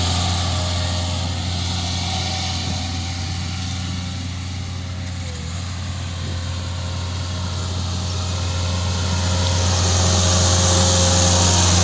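Jacobsen fairway mower running steadily as it cuts, its engine hum dipping somewhat in the middle and growing louder again near the end.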